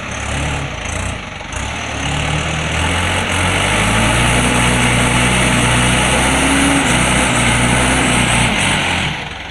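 Diesel truck engine running, quieter for the first two seconds, then louder and pulling as under load with a slight rise in pitch, easing off near the end.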